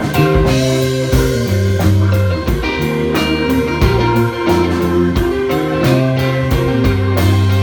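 Live psychedelic rock band playing: electric guitar over a bass line that moves in held notes, with drums keeping a steady beat.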